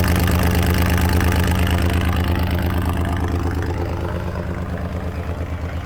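1993 Toyota T-100's V6 engine idling steadily, an even low exhaust pulse through its mufflers. It gets a little quieter about halfway through.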